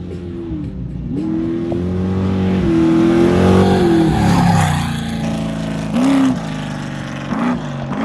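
Off-road race vehicle's engine revving hard as it passes, swelling to its loudest about halfway and dropping in pitch as it goes by. It then gives two short revs near the end.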